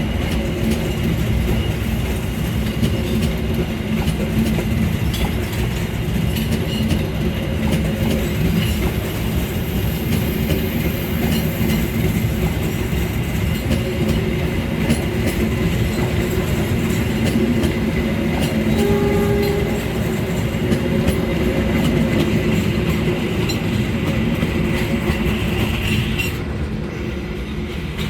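Indonesian intercity passenger train running through, a steady rumble of wheels on the rails with light clicks over rail joints. A short horn note sounds about two-thirds of the way through. Near the end the higher hiss falls away.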